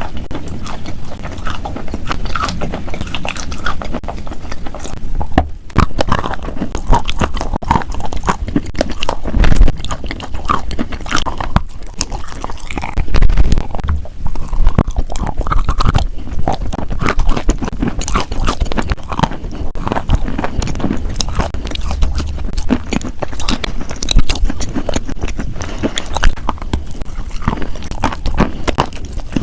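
Crunchy food being bitten and chewed close to the microphone: a dense, irregular run of crisp crunches, with a heavier low thump now and then.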